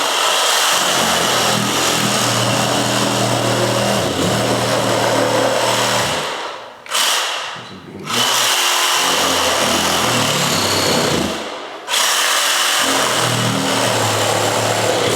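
Handheld power tool running while opening up a wall, in three long runs with two short stops, the first about six seconds in and the second near twelve seconds.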